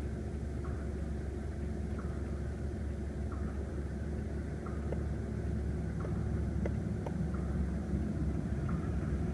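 The 2-litre turbocharged inline-four of a BMW 328i idling, a steady low rumble, with faint light ticks recurring about every second and a bit.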